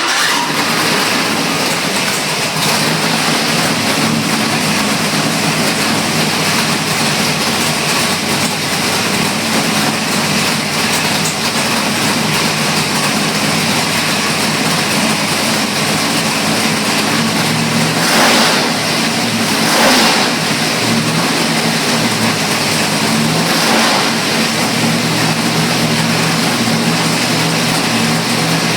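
582 cubic-inch Chevrolet big-block V8 racing engine running loud and steady, with three brief louder surges in the last third.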